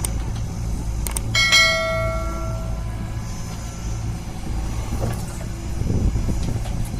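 Heavy diesel machinery running steadily at a low drone. About a second and a half in there is a single sharp metallic clang that rings for about a second. A heavier rumble builds near the end.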